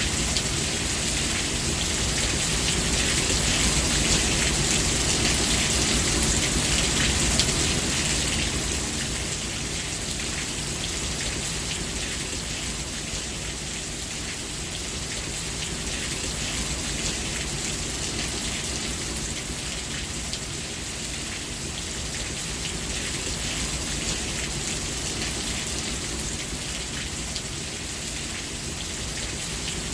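Steady heavy rain falling and pattering on surfaces, a dense hiss of many small drops, easing a little about eight seconds in.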